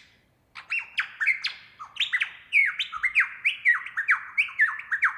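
Superb lyrebird singing: a fast run of sharp, falling notes, about four a second, starting about half a second in.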